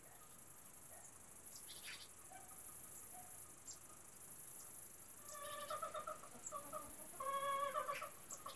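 A steady high insect drone with a few short bird chirps. About five seconds in a bird starts a pitched, wavering call, which comes back louder near the end.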